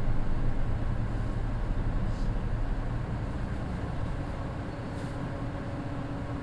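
Mitsubishi Fuso Aero Midi bus with a naturally aspirated 6M61 diesel engine and DD5M finger-shift gearbox, heard from inside while running: a low engine rumble that grows gradually quieter as the bus eases off, with a faint steady whine coming in about halfway through.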